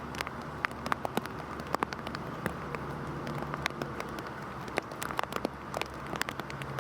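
Heavy rain falling steadily, with many individual drops striking close by as sharp, irregular ticks over the hiss, and a faint low hum underneath.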